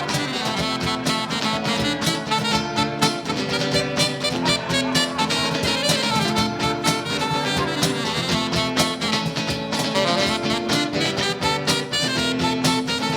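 A band playing an instrumental break in a song, with a steady drum beat and no singing.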